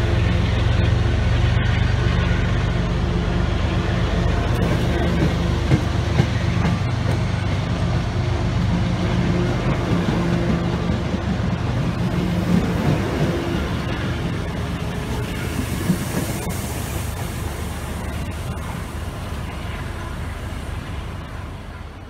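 MBTA commuter rail train of bilevel passenger coaches rolling past close by, wheels rumbling and clicking on the rails over a steady low hum. The sound fades as the train draws away.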